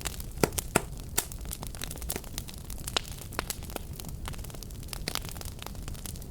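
Fireplace fire crackling: irregular sharp pops and snaps, several a second, over a steady low rumble of burning.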